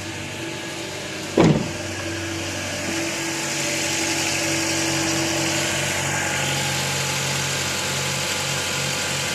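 2010 Honda Insight's 1.3-litre four-cylinder engine idling steadily after a cold start. About a second and a half in there is a short, loud sound that falls quickly in pitch, and from about three seconds a steady hiss comes up over the idle.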